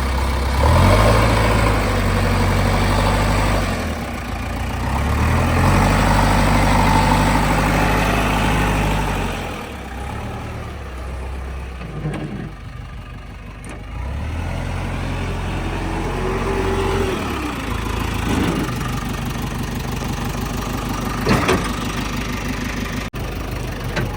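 JCB 3DX backhoe loader's diesel engine running and revving up for several seconds at a time, about three times, then falling back toward idle, as the hydraulics work under load. A few sharp clunks come in between.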